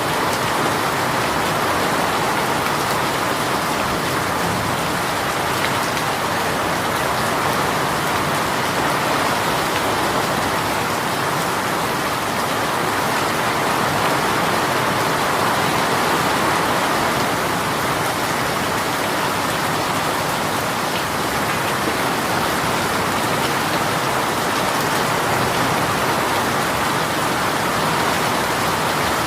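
Heavy rain shower pouring steadily, a continuous even hiss of rain falling on surfaces with no let-up.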